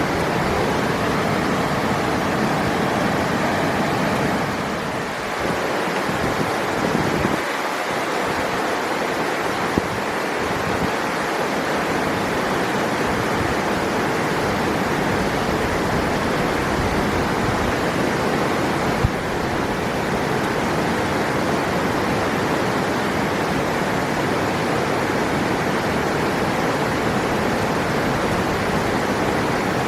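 Steady rush of flowing river water, with a brief dip about five seconds in and two faint clicks.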